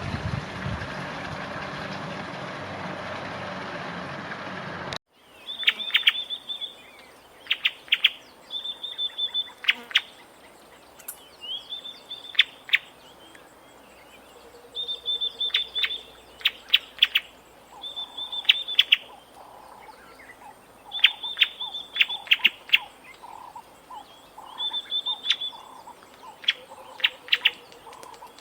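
A steady rushing noise cuts off abruptly about five seconds in. Then a bird calls over and over, every two to three seconds, each call a short high held note followed by a quick run of clipped notes.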